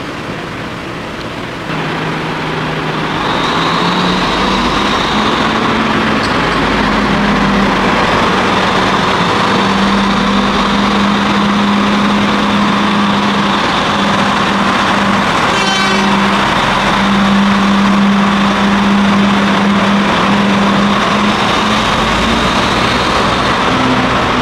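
Sri Lanka Railways diesel multiple-unit train moving along the platform: a steady engine hum over the continuous rumble and rattle of the carriages on the rails, with a brief rapid ticking about two-thirds of the way through.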